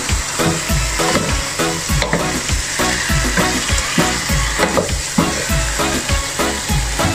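Chicken pieces sizzling in a pot of fried curry paste as they are stirred with a wooden spatula. Background music with a steady beat plays over the sizzle.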